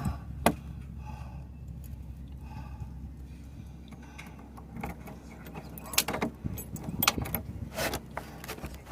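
Scattered sharp clicks and light rattles, bunched together near the end, over a steady low hum.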